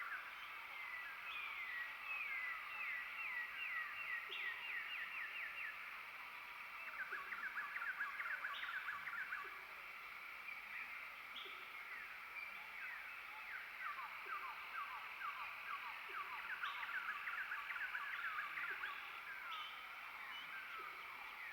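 Chorus of many birds chattering, with overlapping runs of short, quick downward-sweeping chirps. It eases off for a few seconds about halfway through, then picks up again.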